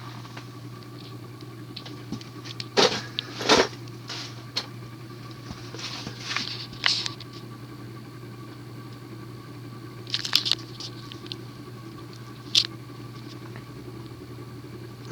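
Cast-iron spinner motor of a 1984 Union Ngok Kee Gulf Star ceiling fan running on medium speed in reverse, a steady hum. Scattered clicks and knocks come on top of it, two loud ones about three seconds in and a cluster around ten seconds.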